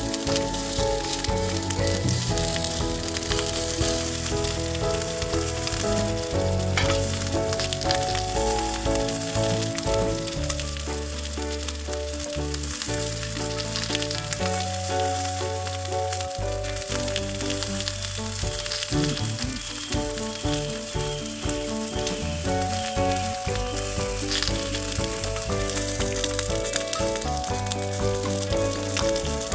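Food sizzling and frying in a pan, a steady crackling hiss, with background music playing over it.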